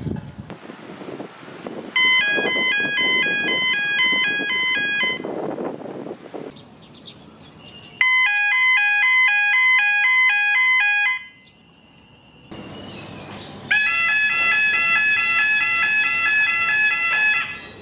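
Railway-station blue-lamp electronic warning tone, heard three times in a row from different stations: each a loud, repeating two-pitch electronic tone that flips between a high and a low note about four times a second for roughly three seconds, then stops abruptly.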